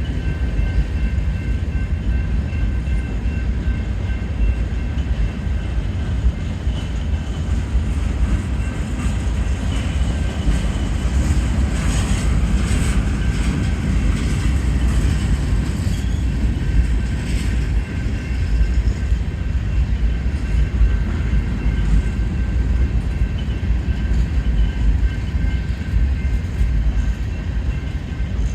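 Freight cars of a long Union Pacific manifest train rolling slowly past, a steady low rumble of wheels on rail with light clicks from the rail joints.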